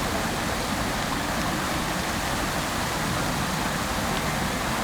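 Fountain water splashing into its basin, a steady, unbroken rush.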